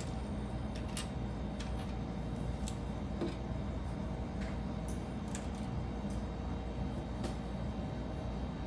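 Light plastic clicks of Lego pieces being handled and fitted together, scattered irregularly over a steady low background hum.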